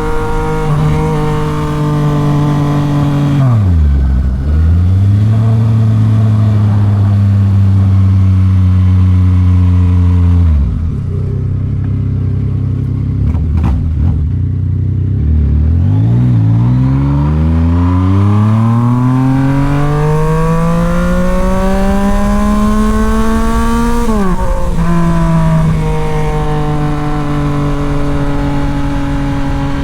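Yamaha MT-09 SP's 890 cc three-cylinder engine through a Toce full exhaust, heard while riding. It holds a steady speed, then drops in revs about four seconds in and falls to low revs near eleven seconds. From about sixteen seconds it makes one long rising pull, dips sharply at a gear change near twenty-four seconds, and settles to a steady cruise.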